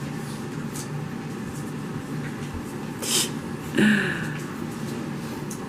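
French Bulldog puppy snuffling: a short snort about three seconds in, then a brief grunting whine, over a steady low room hum.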